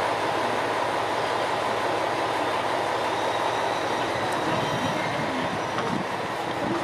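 Heisei Chikuho Railway 500-series diesel railcar running, a steady mix of engine and wheel-on-rail noise.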